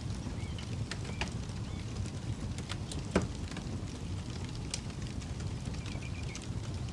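Campfire crackling, with scattered sharp pops and one louder pop about three seconds in, over a steady low rumble.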